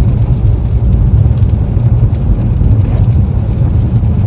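Steady low rumble of a car's tyres and engine heard from inside the cabin while driving on slushy, icy roads.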